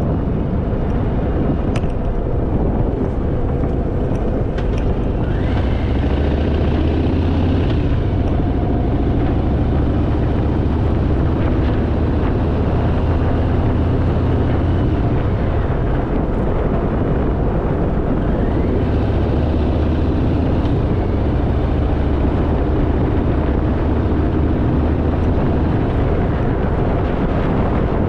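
Harley-Davidson motorcycle riding along, with the engine running and steady wind rush on the microphone. The low engine note grows louder for two long stretches.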